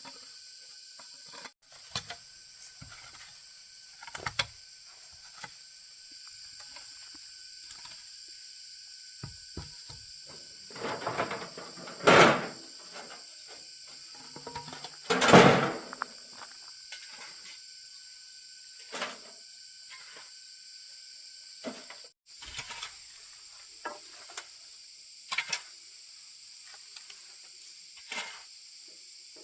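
Scattered knocks and scrapes of handwork on wood, with two louder, longer rasping scrapes near the middle, over a steady high insect drone.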